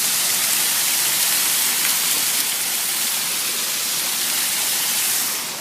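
Steady rush of water falling at a small waterfall, dropping a little in level just before the end.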